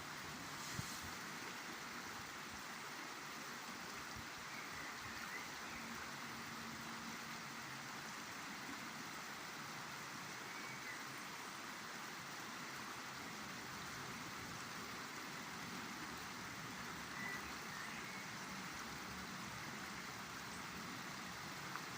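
River water flowing steadily, an even rushing noise with no change. Faint short chirps sound now and then above it.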